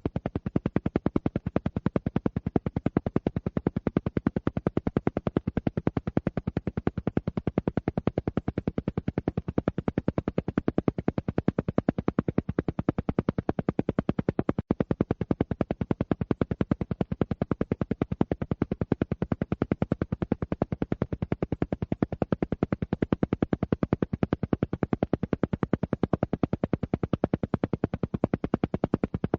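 Alpha-wave brainwave-entrainment audio: a low-pitched, full-bodied sound pulsing on and off many times a second in an even, unchanging rhythm, the way isochronic tones do. There is a very brief dropout about halfway through.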